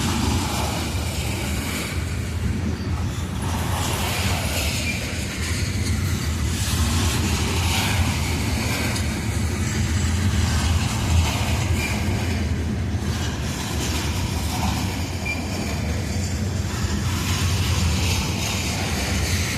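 Loaded coal train cars rolling past: a steady low rumble of steel wheels on the rails, with an uneven clatter riding on top.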